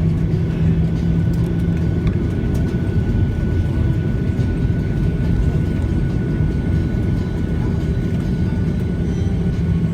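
Steady low rumble of an aeroplane, with a faint, steady high whine.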